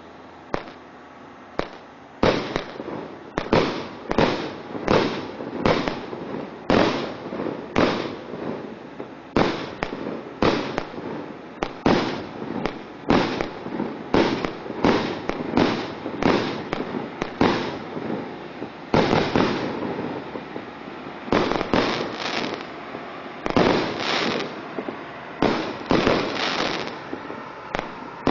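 A 100-shot fireworks cake ("Podarok") firing shot after shot, a sharp bang roughly every half second to second with brief pauses between volleys; a few faint pops just before the volley starts about two seconds in.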